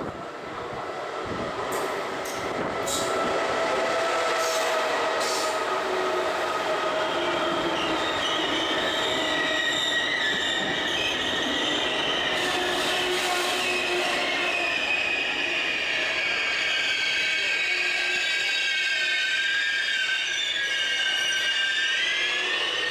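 Trenitalia regional passenger train pulling into a station and braking to a stop. It grows louder over the first few seconds, then gives a steady, wavering high squeal of wheels and brakes in several tones.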